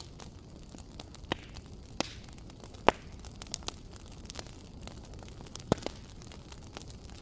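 Fireplace fire crackling: a steady low rumble and hiss of the flames, broken by sharp pops every second or so. The loudest pop comes a little under three seconds in.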